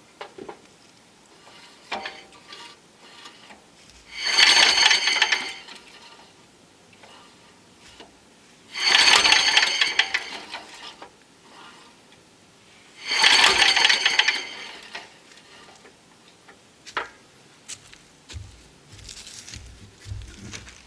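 Old Briggs and Stratton engine on a David Bradley tractor cranked over by its pull starter three times, each pull a rattling metallic whir of about a second and a half. The engine does not fire: this is a spark check, and no spark shows at the plug.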